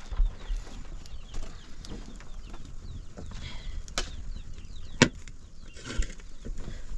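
Birds chirping over and over in short falling notes, with two sharp knocks about four and five seconds in.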